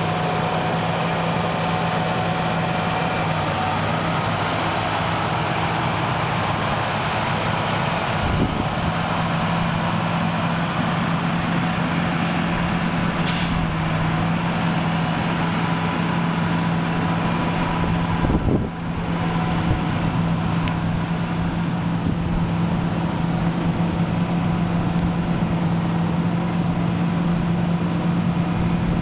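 Caterpillar 120H motor grader's diesel engine running steadily while it works, a constant hum with a short dip in level about two-thirds of the way through and a single knock earlier on.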